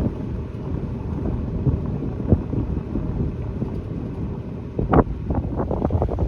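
Wind buffeting the microphone in uneven gusts, with a stronger flurry of buffeting about five seconds in.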